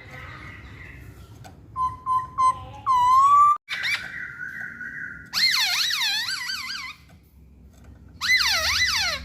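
Chinese hwamei (Poksay Hongkong) singing in loud whistled phrases. A few short notes are followed by a long held whistle, then two bursts of fast, repeated swooping notes with a short pause between them.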